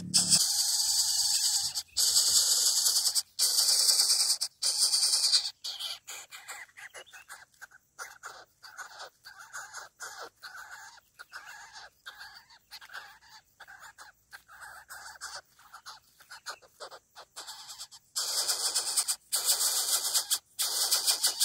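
Greater coucal chick begging for food with harsh, hissing calls in long bursts: a run of them in the first five seconds, fainter sound in the middle, and more near the end.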